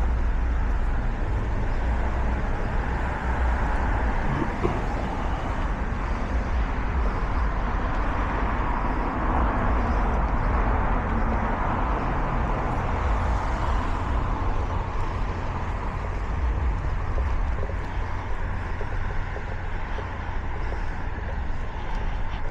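Street traffic noise, a steady wash of road sound that swells once around the middle as a vehicle passes, then eases.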